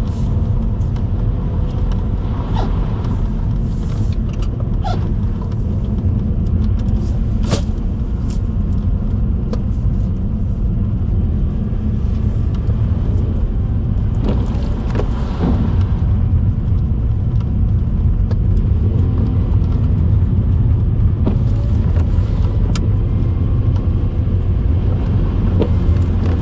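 Car driving, a steady low rumble of engine and road noise with occasional small clicks and rattles.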